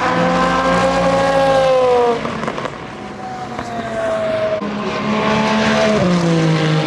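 Endurance race cars passing one after another at speed, each engine note sliding down in pitch as it goes by: a loud one in the first two seconds, a fainter one about three seconds in, and another that steps down in pitch about six seconds in.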